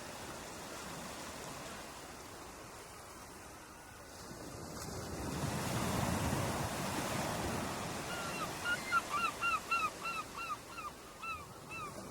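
Ocean surf washing ashore, swelling about halfway through. Near the end a bird calls in a quick series of about a dozen short, pitched calls, roughly three a second.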